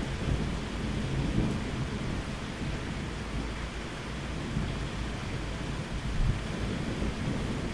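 Steady rain with low thunder rumbling.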